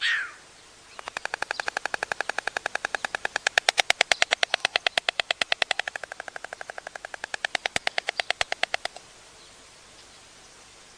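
White stork bill-clattering at the nest: a rapid, even rattle of bill strikes, about nine a second, lasting some eight seconds. It swells to its loudest midway, eases, swells again and stops abruptly. Just before it, a short sound falls in pitch.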